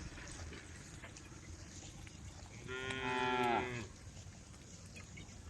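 A cow moos once, about halfway through: a single call of just over a second that drops in pitch as it ends.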